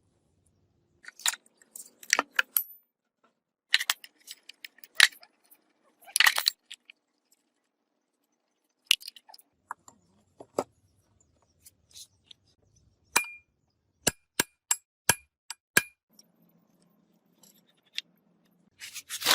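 Metal gearbox parts and hand tools clinking and knocking against each other in irregular clusters. Near the middle comes a run of sharp metallic taps, several of them ringing briefly.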